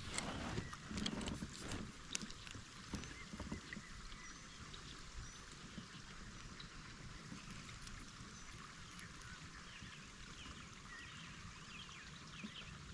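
Faint knocks and clicks of gear against a kayak during the first few seconds, then a quiet creek background with scattered faint high chirps.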